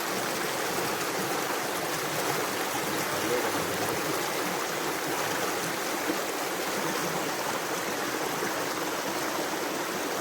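A stream flowing, a steady rush of running water.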